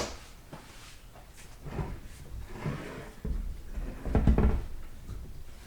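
Clunks and knocks of metal transmission parts and hand tools being handled and set down on a workbench. The clatter is irregular and busiest a little past the middle.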